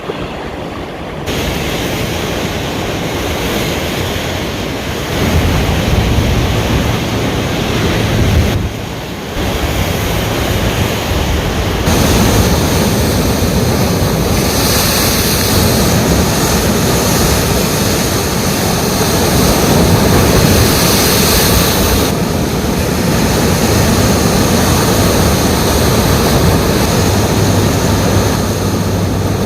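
Ocean surf washing in, a continuous loud rushing noise that swells and eases every few seconds.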